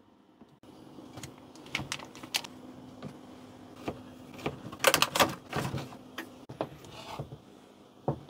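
Household knocks and clicks over a steady low hum, with a cluster of sharp, louder knocks about five seconds in.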